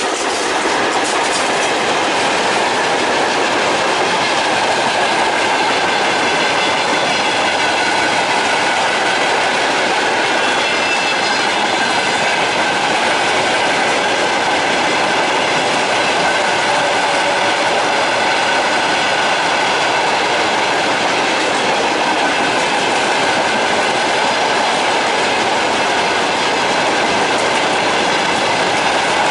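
Freight train hauled by a VL80K electric locomotive rolling past: a steady, loud run of wheel noise with wagon wheels clattering over rail joints.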